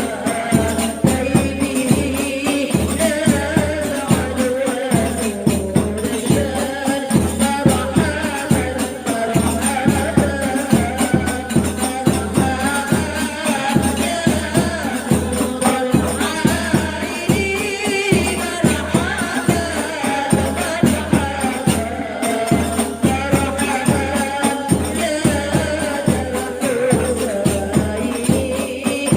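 Women's group singing sholawat in unison to hadroh, rebana frame drums with jingles keeping a steady, even beat.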